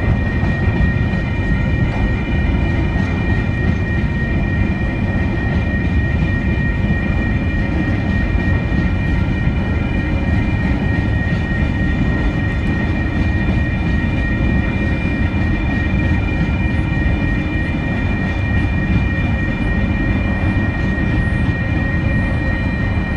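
TasRail freight train rolling past, a loud continuous rumble of wheels on rail with steady high-pitched tones ringing throughout.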